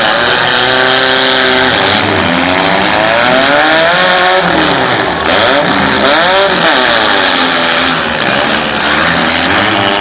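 Several demolition derby cars' engines revving at once, pitches climbing and falling as the drivers accelerate and back off.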